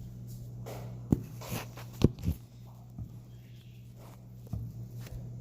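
A handful of short knocks and taps from objects being handled, over a steady low hum.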